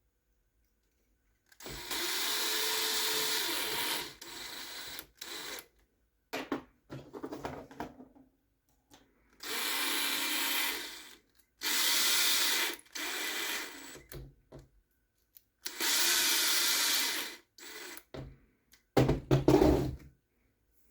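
Small electric screwdriver driving M2 screws into a 3D-printed plastic frame: four short whirring runs of one to two seconds each, with clicks and handling noise between them.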